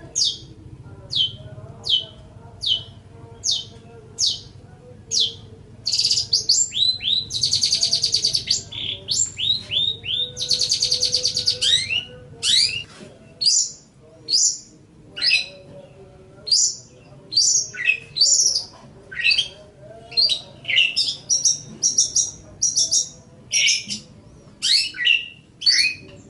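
Long-tailed shrike singing: a string of sharp down-slurred notes, about one every 0.8 s, broken around the middle by two harsh, rapid buzzing trills, then a quicker and more varied run of notes.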